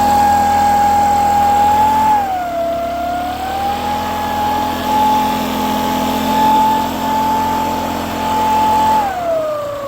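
Mast MB900 engine leaf blower running at high throttle. Its pitch dips briefly about two seconds in and climbs back, then drops toward idle near the end as the throttle is let off.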